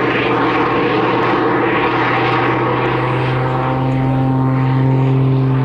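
Jet-augmented Pitts biplane in aerobatic flight: its piston engine and propeller running together with its two turbojets, a loud steady drone. Steady higher tones join in about three seconds in.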